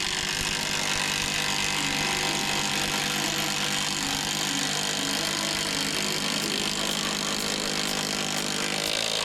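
Impact driver hammering a long structural screw into a sawmill leg, a steady continuous rattle for the whole stretch, to stiffen the mill and take out its wiggle.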